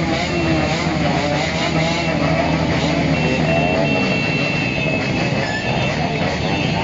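Traffic from a big motorcycle caravan: many motorcycle engines running and revving together, with a steady horn tone held for a couple of seconds about halfway through.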